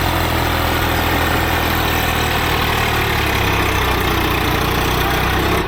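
Heavy diesel engine running steadily at a constant speed, a low, even engine note with no revving.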